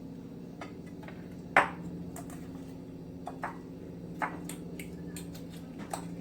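Kitchen utensils clinking against dishes: one sharp clink about a second and a half in, then a few lighter taps, over a steady low hum.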